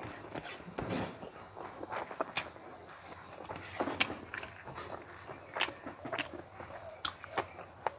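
A person chewing a mouthful of rice, with irregular wet smacks and clicks from the mouth, and fingers mixing rice on a steel plate.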